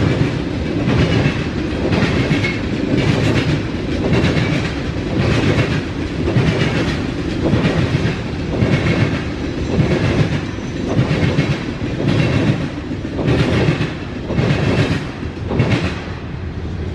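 Freight train cars rolling past, their wheels clacking over the rail in a steady rhythm of about one and a half clacks a second over a continuous rumble; the clacking ends near the end as the train clears.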